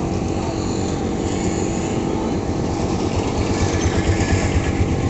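An engine or motor running steadily with a low, even pulse, the pulsing growing a little stronger in the last couple of seconds.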